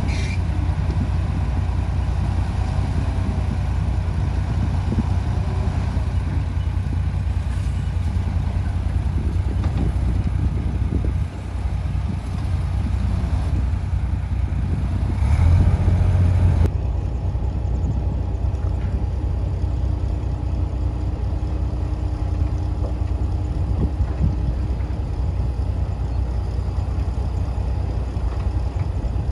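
Heavy diesel engine of earthmoving machinery running with a steady low rumble. It dips briefly about eleven seconds in and grows louder around fifteen seconds in, and the sound changes abruptly about seventeen seconds in.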